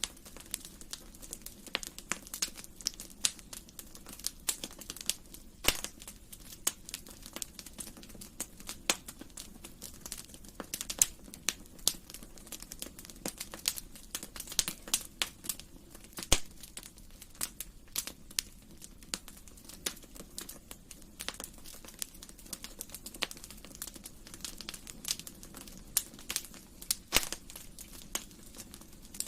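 Wood fire crackling, with frequent irregular sharp snaps and pops over a low, steady rush of flame.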